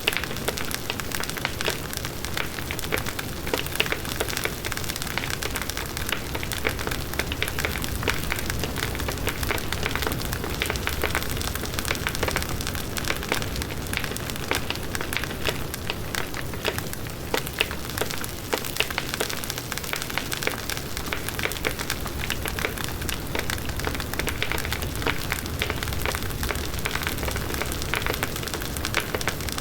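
Large wood bonfire burning steadily, with dense, constant crackling and popping of burning wood over the rush of the flames.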